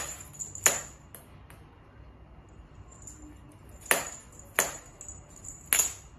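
A handful of sharp, bright clicks at uneven intervals, two close together at the start and three more in the last half, over a faint steady background.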